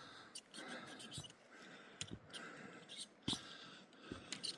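Footsteps on a rocky mountain trail, a sharp step sound about every second, over a faint steady hiss.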